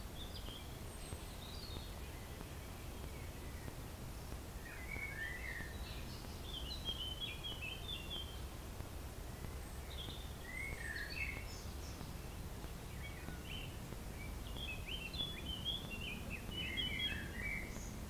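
A songbird singing a varied string of quick, chirping phrases, each a second or two long with short pauses between them, over a low steady background rumble.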